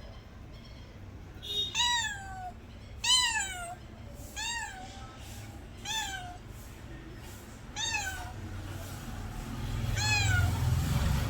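Domestic cat meowing six times, each meow a short call that falls in pitch, spaced one to two seconds apart. A low rumble builds near the end.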